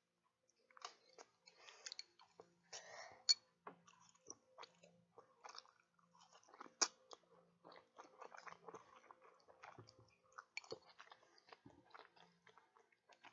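Close-up eating sounds of udon noodles: slurping, wet chewing and mouth smacks, with scattered small clicks.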